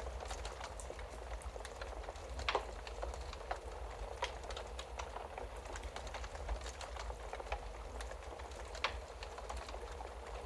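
Wood fire crackling steadily, with irregular sharp pops and snaps from the burning logs, the loudest about two and a half seconds in and again near the end.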